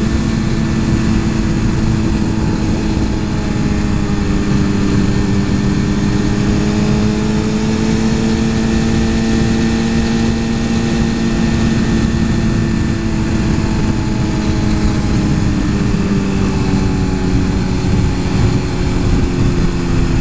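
Suzuki GSX-R 1000 superbike's inline-four engine running at steady high revs under way, its pitch climbing slightly and then easing back, over a constant rush of wind noise.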